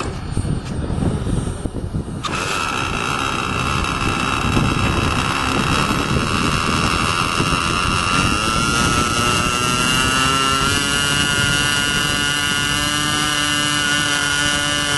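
Radio-controlled model jet's engine whining steadily. The whine comes in about two seconds in, and its pitch rises from about eight seconds in, then holds high.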